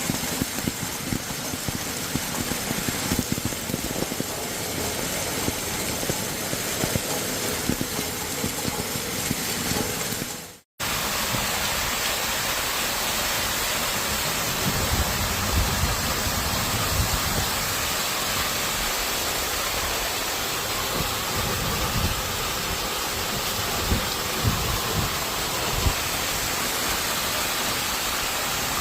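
A steady roar of a storm downpour with gusts of wind rumbling on the microphone. It cuts out for a moment about ten seconds in, then carries on much the same.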